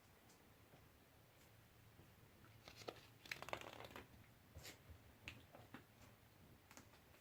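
Kittens playing, heard as faint rustling and scratching with scattered light clicks. The busiest stretch is a cluster about three to four seconds in.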